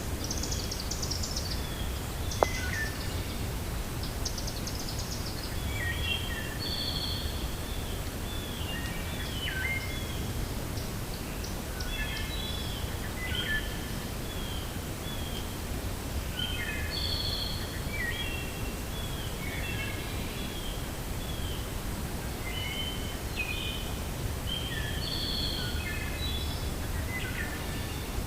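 Wind rushing on the microphone with a low rumble, and small birds chirping over it in short, quick phrases. A single sharp click about two and a half seconds in.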